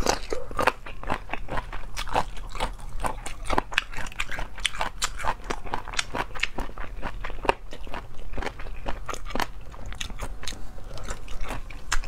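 Chewing and biting chicken feet close to the microphone: a steady run of crisp crunches, several a second.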